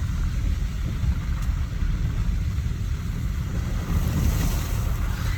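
Car driving on a slushy, snow-covered road, heard from inside the cabin: a steady low rumble of engine and tyres.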